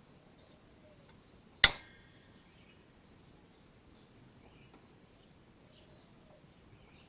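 A single sharp metallic clink about one and a half seconds in, with a brief ring, against faint background hiss.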